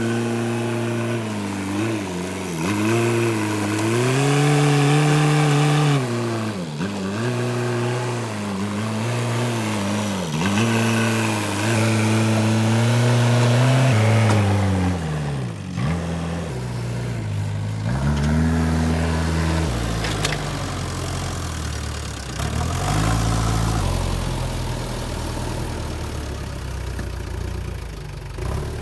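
JCB 3DX backhoe loader's diesel engine revving up and down over and over, each rev lasting a second or two, as the stuck machine labours to free itself from mud. After about fifteen seconds it settles to a lower, steadier run with slower swells.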